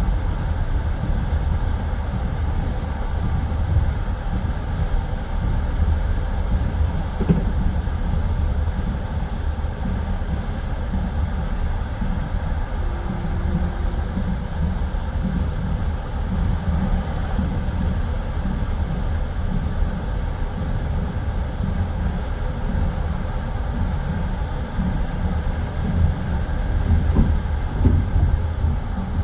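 Passenger train carriage rolling along the track, heard from inside: a steady low rumble of the wheels with the clack of wheels over rail joints, and a few louder knocks near the end.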